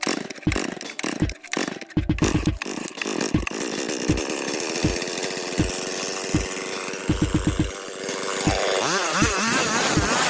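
Stihl MS 381 two-stroke chainsaw engine running steadily, then revved up and down repeatedly from about eight seconds in. It has been started after a starter repair. A regular low beat runs underneath.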